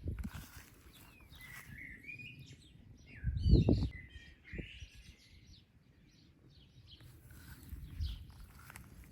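Songbirds chirping and calling, with short chirps scattered throughout. A brief, loud low rumble comes about three and a half seconds in, louder than the birds.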